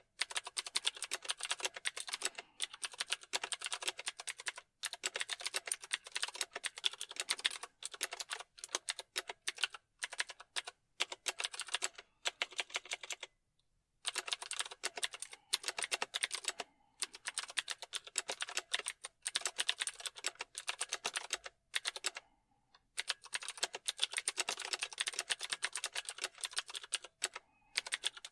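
Fast typing on a computer keyboard: rapid key clicks in bursts, broken by short pauses and one longer pause about halfway through.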